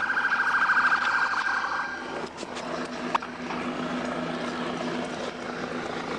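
Police siren on a pursuing patrol car, pulsing rapidly for about two seconds and then cutting out. After that comes the car's engine and road noise with a steady hum and a couple of sharp clicks.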